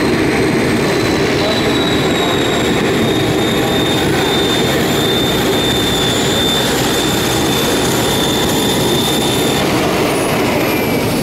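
High-pitched whine of an electric RC helicopter's motor and rotors over a steady, loud rushing noise; the whine stops about ten seconds in.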